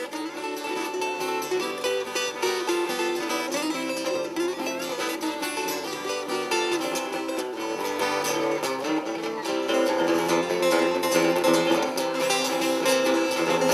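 Instrumental acoustic music: guitar-like plucked strings picking a continuous run of notes, with no singing.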